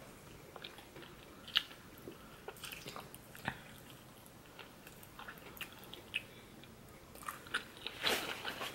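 A person chewing food close to the microphone, with scattered short, sharp mouth clicks and a brief louder burst of noise near the end.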